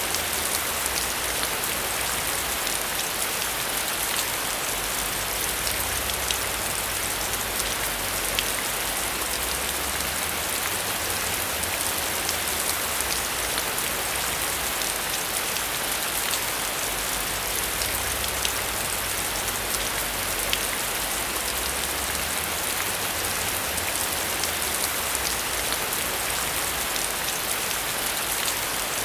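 Heavy rain falling steadily, with many single drops ticking through a continuous hiss.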